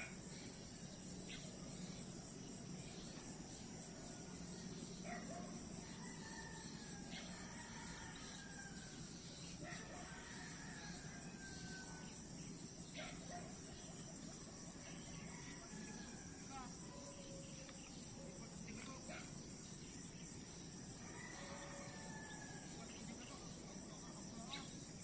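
Night-time insect chorus: crickets trilling steadily at a high pitch, with scattered short sliding calls and occasional clicks over it.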